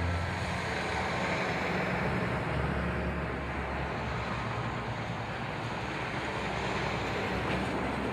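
Tow trucks driving past in a parade line, their engines running steadily under a loud rush of wind on the microphone.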